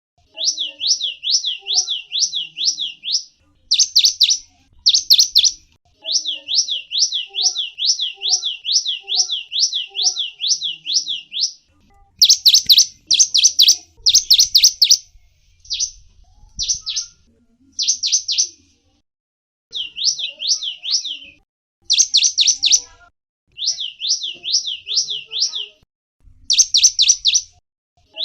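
A gelatik wingko songbird singing rapid runs of high, down-slurred whistled notes, about five a second, in phrases of one to four seconds with short pauses, broken now and then by louder, sharper notes.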